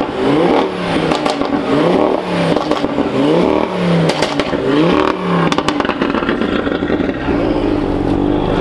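Audi RS3 Sportback's turbocharged five-cylinder engine revved in short blips about once a second as the car pulls away slowly. A few sharp pops come about halfway through, then it settles to a steadier run.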